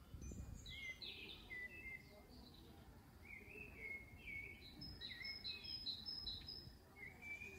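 Faint birdsong: a small songbird singing repeated short phrases of chirps and whistled glides, over a low outdoor rumble.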